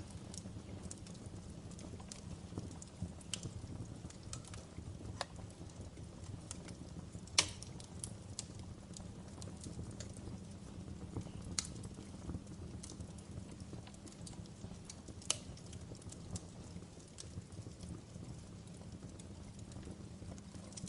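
Wood fire in a fireplace crackling: irregular sharp pops and snaps over a low, steady rumble. A few pops stand out, the sharpest about seven seconds in and others around eleven and fifteen seconds.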